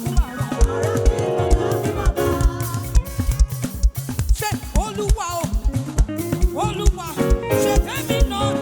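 Live gospel praise music: a singer's voice over a band with a drum kit keeping a steady, danceable beat.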